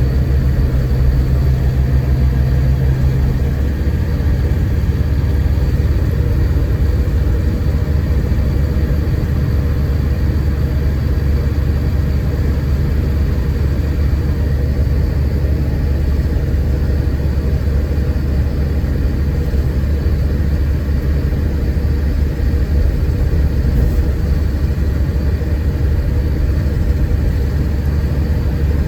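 Scania K410IB coach's 13-litre six-cylinder diesel and drivetrain running on the road, heard inside the passenger cabin as a steady low rumble. A steady engine hum stands out for the first few seconds, then drops away about three and a half seconds in.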